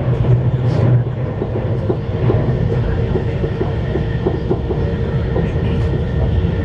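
Cabin noise of a CRH1A high-speed electric multiple-unit train running: a steady low rumble with a faint steady hum, and a run of light clicks through the middle.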